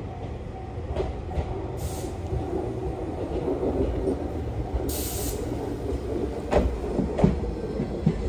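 Toyotetsu electric commuter train pulling in along the platform: a steady low rumble of wheels on rail, with sharp clacks over rail joints about a second in and twice near the end. Two short hisses come about two and five seconds in.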